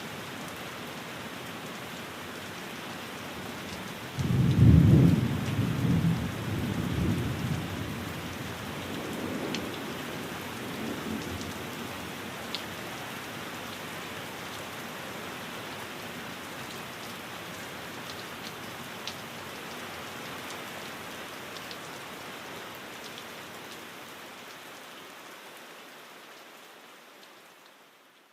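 Steady rain falling, with a loud rumble of thunder that breaks about four seconds in and rolls on for several seconds before dying away. The rain fades out near the end.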